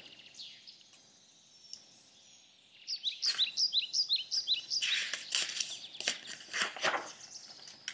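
A bird chirping: after a quiet start, a quick run of short, high chirps begins about three seconds in and keeps repeating.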